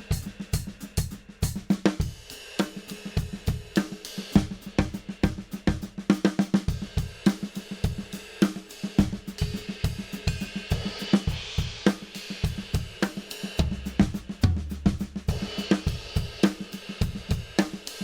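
Drum kit played in a sticking grouping of three (right, left, left), a steady stream of strokes moving between hi-hat, snare and toms, with the bass drum kicking together with the right-hand strokes.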